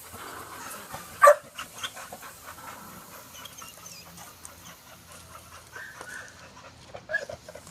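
Pit bull mix dog giving one loud bark about a second in, followed by quieter dog sounds and scattered light clicks.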